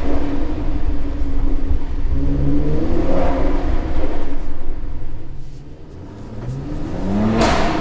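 Mercedes-AMG C43's twin-turbo V6 through its AMG performance exhaust, revving up and down in an underground car park. The revs fall away about five seconds in, then climb again, and a sharp crack from the exhaust comes near the end.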